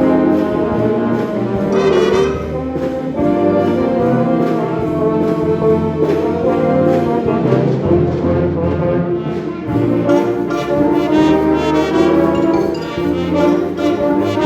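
Concert wind band playing with brass to the fore: trombones and trumpets carry sustained chords over a steady percussion beat. The texture thins for a moment a little past the middle, then swells back to full band.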